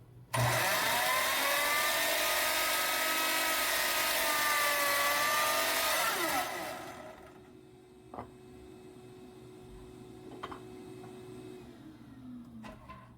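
Electric power saw starting up about half a second in and cutting through a wooden fence picket with a steady whine for about six seconds, then switched off, its pitch falling as the blade spins down. A couple of light knocks follow.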